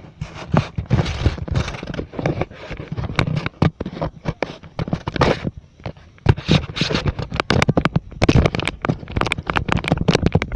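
Loud, irregular crackling and rumbling buffets on the recording microphone, typical of wind and handling noise on a device carried along on a bike ride.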